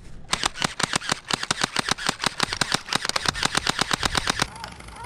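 Gel blaster firing full-auto: a rapid, even string of sharp shots at about ten a second for roughly four seconds, then stopping.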